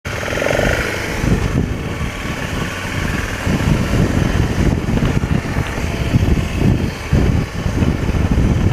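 BMW F650 GS motorcycle's single-cylinder engine running with a steady, uneven low rumble.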